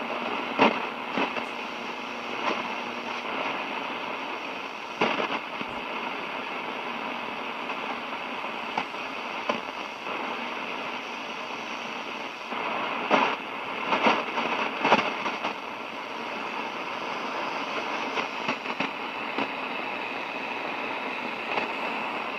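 Lightning static on a Realistic DX-394 shortwave receiver fed by a long-wire antenna: a steady hiss broken by sharp crackling crashes, several of them bunched together a little past halfway. The crashes are distant lightning from an approaching storm, picked up hundreds of miles away.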